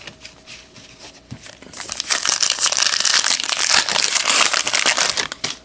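Foil wrapper of a trading card pack crinkling loudly as it is torn open, starting about two seconds in and lasting some three seconds, after a few faint clicks of cards being handled.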